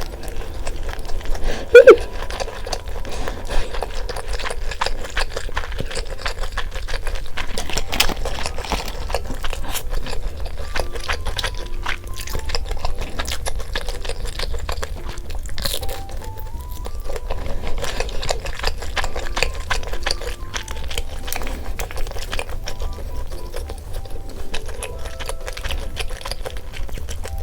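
Close-miked crunching and chewing of crispy fried chicken: dense crackles and clicks throughout, over light background music. A short, loud pitched sound stands out about two seconds in.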